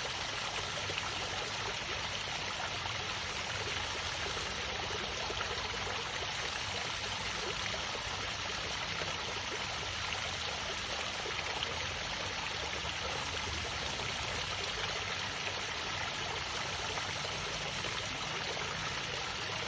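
Pool fountain water splashing and trickling steadily into the pool.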